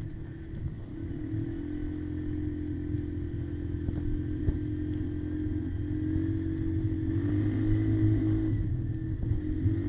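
Kymco Maxxer 300 quad's engine running at a fairly even speed, its pitch stepping up and down slightly a few times.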